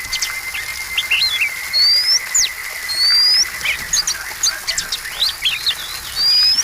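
Oriental magpie-robin (kacer) singing a fast, varied song: sharp whistles that slide steeply downward mixed with short rising notes. A thin steady high tone runs underneath for the first half.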